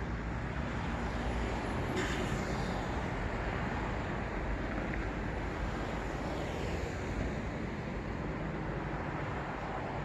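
City road traffic: a steady rumble of cars with tyre noise, swelling as vehicles pass about two seconds in and again around six to seven seconds. A brief click comes about two seconds in.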